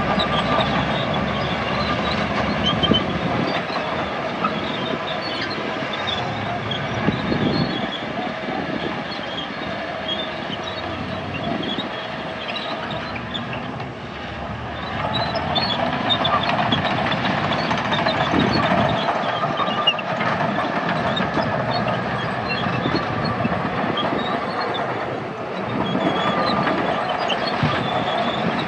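Crawler bulldozer's diesel engine running under load, its pitch and loudness rising and falling as it works, with scattered short clicks and clanks over it.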